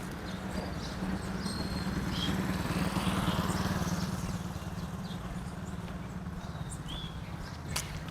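Outdoor street ambience: a steady low mechanical hum that grows louder about two seconds in and eases off again after about four seconds, with a few short high chirps and an occasional sharp click.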